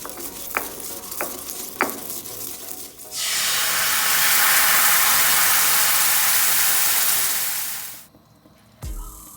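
A spatula clinks lightly against a pan three times over a faint sizzle. Then food sizzles loudly in hot oil for about five seconds and cuts off suddenly.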